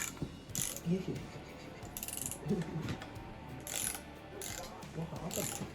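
Hand ratchet clicking in short bursts, about seven strokes spread across the few seconds, as the valley cover bolts on a 5.3 LS V8 are run down toward a 9-pound torque spec.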